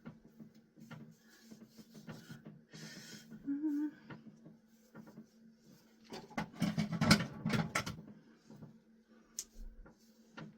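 Scissors cutting through hair, a quick run of crisp crunching snips about six seconds in, with lighter handling rustles and clicks before it; the bangs are being cut.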